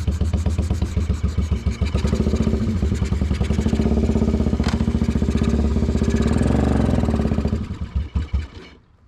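Yamaha motorcycle engine running with an even pulse, then cutting out about eight seconds in with a few spaced-out last beats.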